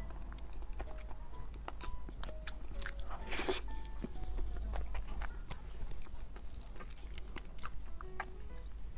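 Close-miked eating sounds of soft cream-layered durian crepe cake: chewing, lip smacks and small mouth clicks, with one louder smack a little after three seconds in. A simple background melody plays throughout.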